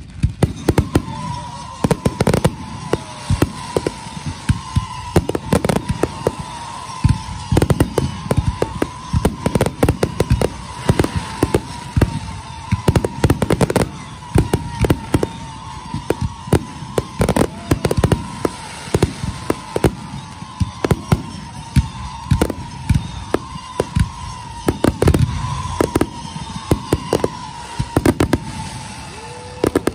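Fireworks display heard at close range: aerial shells bursting in quick, continuous succession, several loud bangs a second with crackle between them. A steady high tone runs beneath the bangs.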